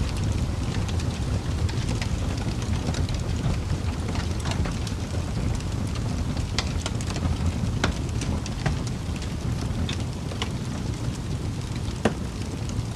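Wood fire burning in a fireplace: a steady low rumble of the flames with scattered crackles and pops, one sharper pop near the end.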